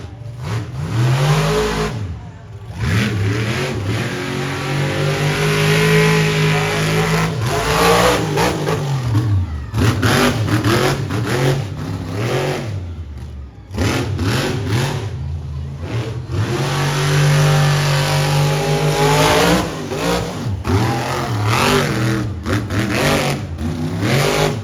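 Monster truck engine revving hard, its pitch climbing and falling again and again with the throttle, with brief drops in power about two, ten and fourteen seconds in.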